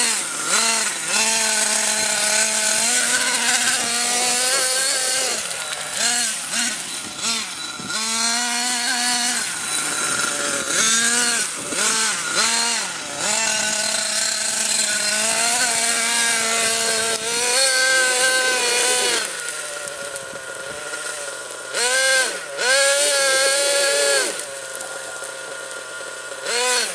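Radio-controlled vehicle's motor revving up and down in repeated short bursts, its pitch rising and falling with the throttle as it tries to climb.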